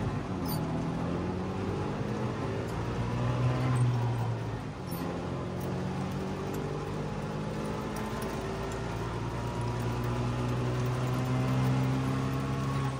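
Trabant 601's two-cylinder two-stroke engine running while the car drives, heard from inside the cabin. Its pitch dips about five seconds in, then climbs slowly as the car gathers speed.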